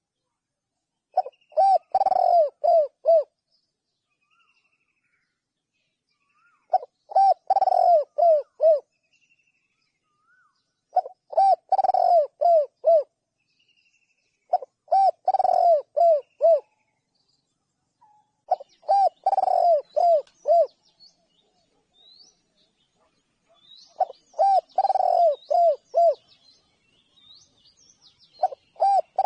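A spotted dove cooing: about six short phrases of five or six coos each, repeated every four to five seconds with quiet gaps between. Faint high chirps come from other small birds, more of them near the end.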